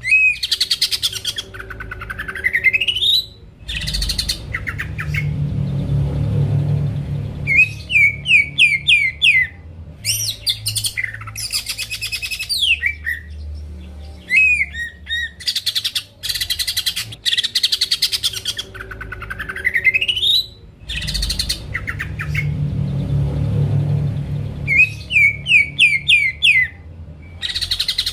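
Green leafbird (cucak ijo) singing a loud, varied song: long rising whistled glides, rapid chattering trills and runs of sharp chirps. The same sequence of phrases comes round again about every 17 seconds, with a low rumble beneath some passages.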